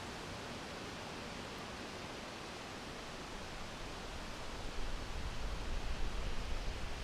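Steady wind, an even hiss, joined about two-thirds of the way in by a low gusting rumble that makes it louder and less even.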